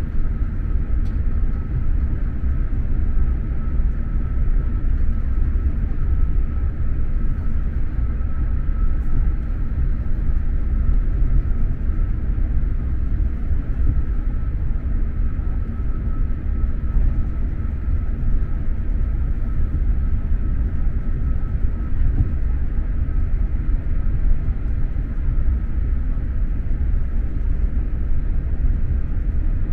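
Steady low rumble of an X2000 high-speed train running along the line, heard from inside a passenger carriage, with a faint steady high tone above it.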